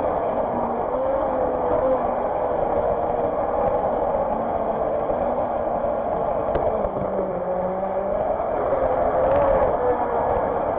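A radio-controlled jet boat's motor and water-jet drive heard from onboard: a steady whine that wavers in pitch with the throttle, over rushing, splashing river water.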